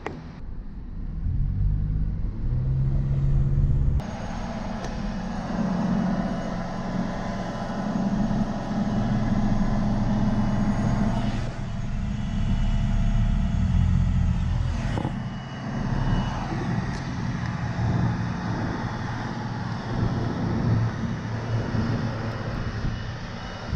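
Motor vehicle engine and road noise, a low steady hum under a rushing haze, changing abruptly a few times where clips are cut together.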